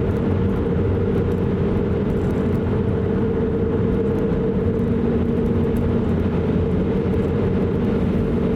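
Car running with a steady engine and road noise and a constant hum.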